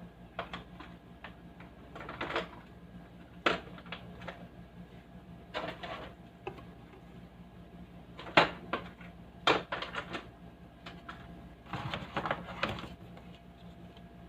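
Irregular clicks, knocks and light rattles of hand handling, in clusters a second or two apart, over a faint steady hum.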